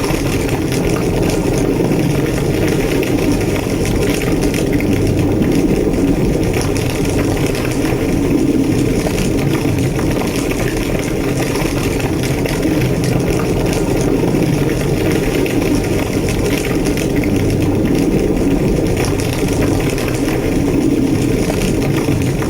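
Large structure fire burning with a steady low roar and many small crackles throughout.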